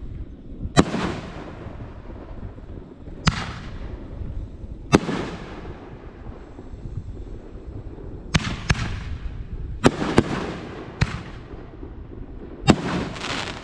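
Fireworks going off: about nine sharp bangs at irregular intervals, some in quick pairs, each trailing off briefly, over a steady low rumble.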